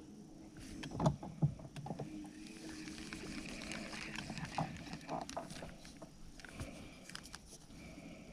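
Small fishing boat on the water: a few knocks and bumps against the hull about a second in, then light handling clicks over a steady hiss of water and air.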